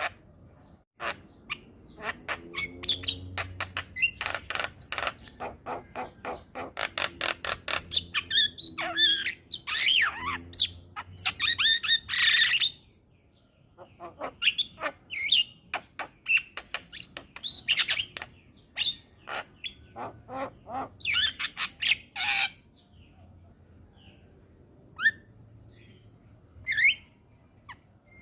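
Javan myna calling in a fast chattering run of clicks, harsh squawks and whistled notes, breaking off about halfway and then going on; near the end only a few short calls.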